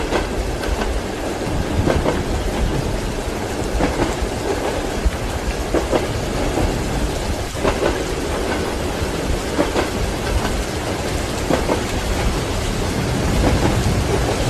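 Steady rain with the low rumble of a thunderstorm. Under it, a train's wheels knock on the rail joints about every two seconds.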